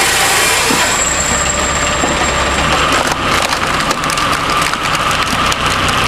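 Heavy wood-processing machine running under load. Dense cracking and snapping of wood being broken up thickens from about three seconds in, over a steady mechanical whine.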